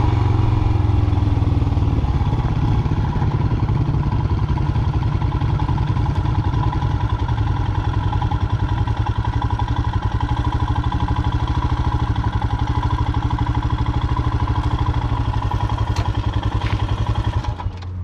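Royal Enfield single-cylinder motorcycle engine running at low speed, its firing pulses distinct and even. It eases off near the end with a few clicks.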